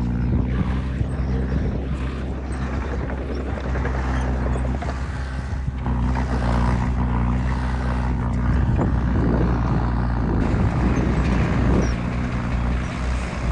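Heavy diesel earthmoving engine running steadily, with a noisier, rougher stretch about two-thirds of the way through.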